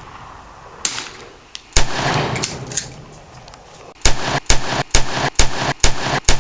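Rifle gunfire: a faint shot about a second in and a louder one near two seconds, then from about four seconds on a rapid string of shots, about two a second, from a semi-automatic rifle fired as fast as the trigger can be pulled.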